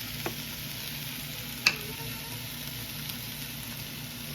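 Food frying in a pan on the stove, a steady sizzle, with a sharp clink about one and a half seconds in.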